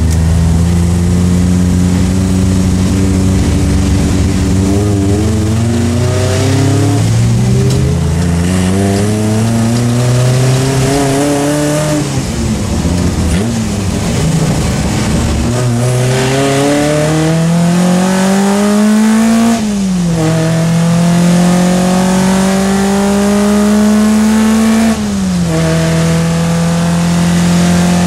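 Triumph Spitfire Mk3's four-cylinder racing engine heard from inside the cabin, revving hard under acceleration. The pitch climbs, sags through a lift-off in the middle, then climbs again with two sharp drops at upshifts in the second half.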